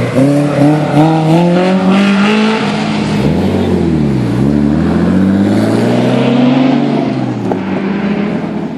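A performance car's engine accelerating hard, its revs climbing in steps through the gears, dropping and picking up again about four seconds in, then fading after about seven seconds as the car pulls away.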